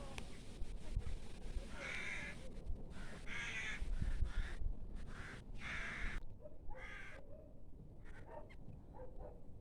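A flock of crows cawing: harsh calls at irregular intervals, loudest through the first six seconds or so, then fainter, shorter calls.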